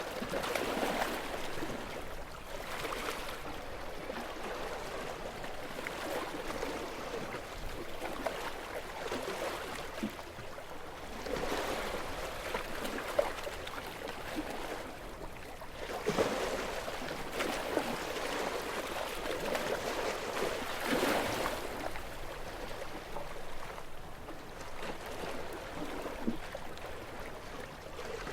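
Small, calm sea waves lapping and washing on the shore in a steady hiss that swells every few seconds, with the strongest surges about 1, 12, 16 and 21 seconds in, and small splashes between them.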